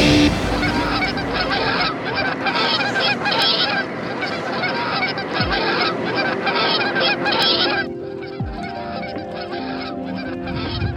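A flock of geese honking, many overlapping calls at once, thinning out to fewer, more separate honks about eight seconds in.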